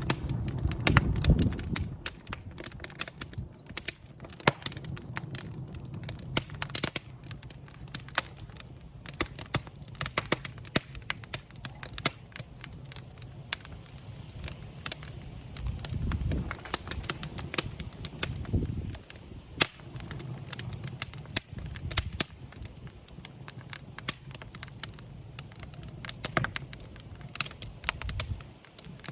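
Wood fire crackling in a fireplace: frequent irregular sharp pops and snaps over the low rumble of the burning flames, which swells up a few times.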